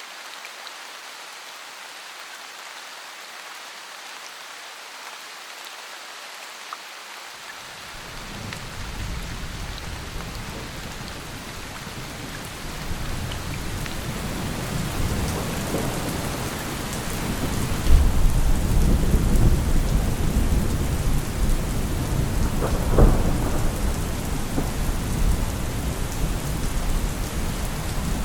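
Steady rain falling, joined about seven seconds in by deep rolling thunder that builds and grows loud, with its strongest peals about 18 and 23 seconds in.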